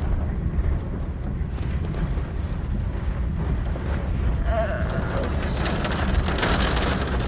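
Steady low rumble of a car's interior, with rain pattering on the car more and more thickly in the last couple of seconds.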